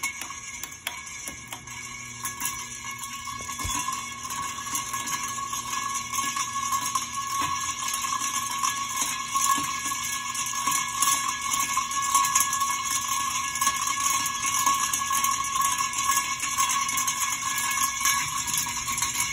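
Ventless Alaska ceiling fan running on high speed, growing louder over the first few seconds as it comes up to speed, then holding steady. Under the air rush it has a steady high ringing tone and light ticking, the squeaking that the owner puts down to a screw in the motor.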